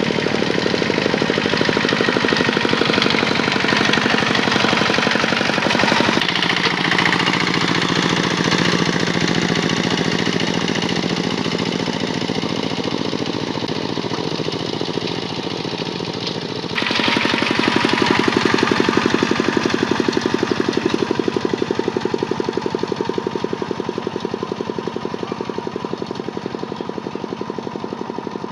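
Kubota tractor's diesel engine running with a fast, even knocking beat. The sound changes abruptly about six seconds in and again a little past the middle, growing louder there and then slowly fading.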